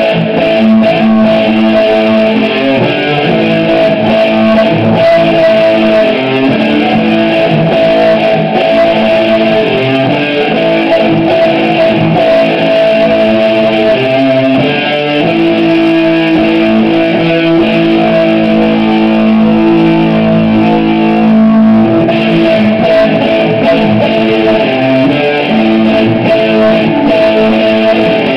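Electric guitar played through an amplifier being tested after repair: sustained notes and chords, loud and continuous.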